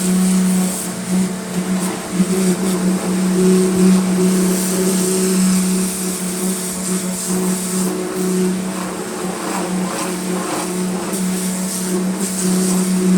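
Pressure washer running steadily, its motor and pump giving a constant hum under the hiss of the water jet, which swells and fades as the spray moves across the wheel.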